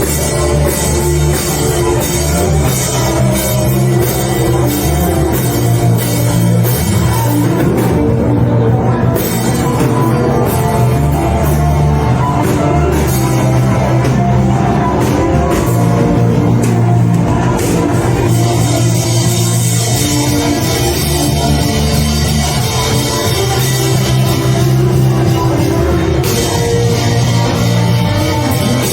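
Loud band music with a drum-kit beat and deep, changing bass notes, running without a break.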